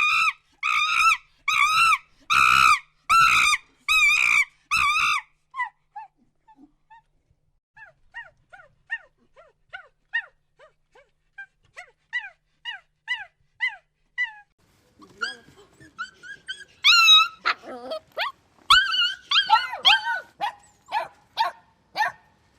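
A dog barking and yipping in high-pitched, evenly spaced calls, about seven in the first five seconds. Quieter short whines that fall in pitch follow, then louder mixed barks and whimpers in the last several seconds.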